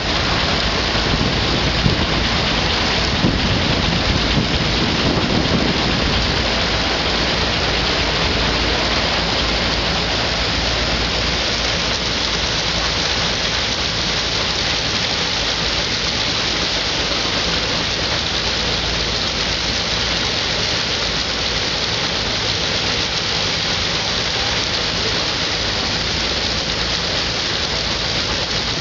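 Threshing machine running steadily while threshing wheat, belt-driven by a Minneapolis steam traction engine: a dense, even rushing noise with a faint low hum beneath.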